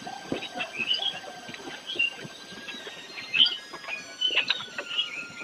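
Small birds chirping and tweeting in short, scattered calls, with a few soft knocks in between.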